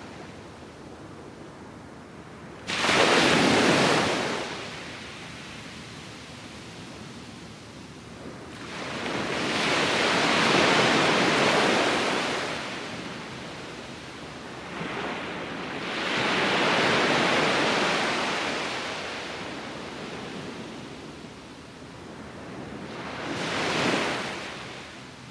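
Surf on a sandy beach: four waves break in turn, the first crashing suddenly about three seconds in, the next two swelling and fading slowly, and a shorter one near the end.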